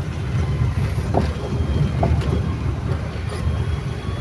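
Truck on the move, its engine and road noise a steady low rumble.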